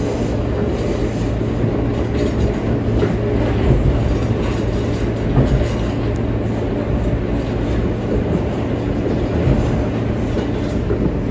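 R143 subway car running along the track, heard from inside: a steady rumble of wheels and running gear with no change in pace.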